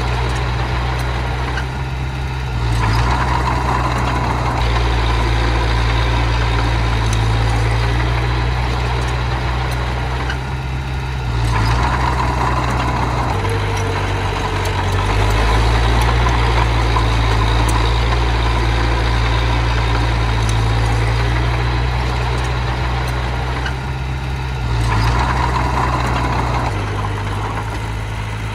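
Heavy machinery diesel engine running without a break, its note and loudness swelling under load three times and settling back between.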